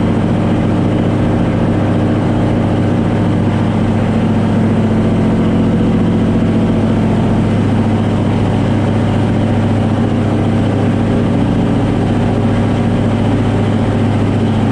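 Heavy diesel truck engine running steadily, its pitch holding constant throughout.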